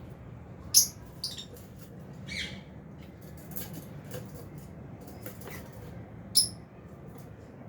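Lovebirds giving short, shrill chirps and squawks, Fisher's and albino birds in an aviary flock. The two loudest calls come about a second in and near the end, with fainter chirps between.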